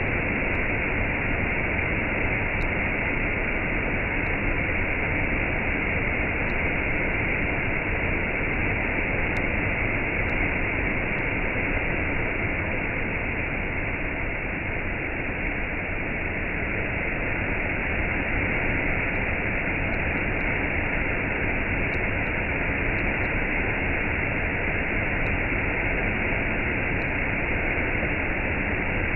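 Water falling over a waterfall and cascade, a steady, unbroken rush of splashing water.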